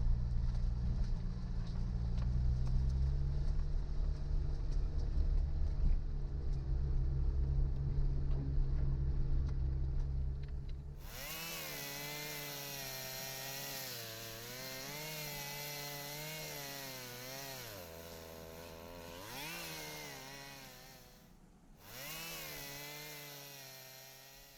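A low, steady engine rumble for about the first ten seconds, then a chainsaw running, its pitch rising and falling as it is revved, with a short break about three seconds before the end.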